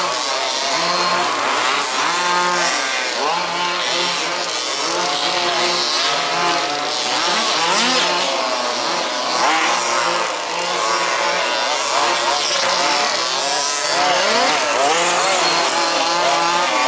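Several 1/5th-scale RC buggies' small two-stroke petrol engines racing together, each revving up and backing off through the corners, so their whining pitches overlap and rise and fall continuously.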